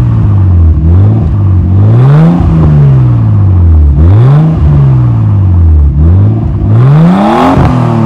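Nissan Skyline R33's RB25DET turbocharged straight-six, through a Kakimoto aftermarket exhaust with the catalytic converter still fitted, revving up and dropping back about three times. The highest rev comes near the end.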